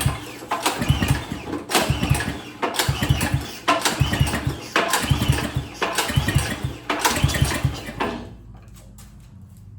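Small snowblower engine being cranked over by its recoil pull-starter, about eight pulls at roughly one a second, each a rope whir with the engine chuffing over, stopping about eight seconds in. It is being turned over for a compression test with the throttle held wide open, so it does not fire; it reads only about 65 to 70 PSI, which is put down to a built-in decompression release.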